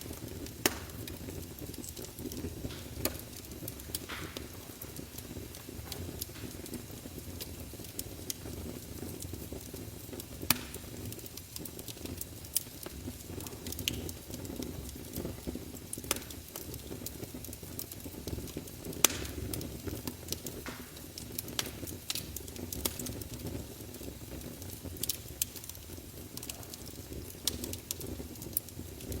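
Wood fire of burning logs crackling in a fireplace: a steady low rumble and hiss, broken by sharp pops at irregular intervals, the loudest about nineteen seconds in.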